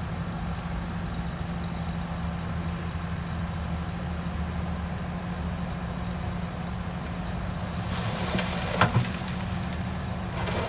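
Heavy diesel engine of construction machinery running steadily. About eight seconds in comes a brief hiss, then a few sharp metallic clanks.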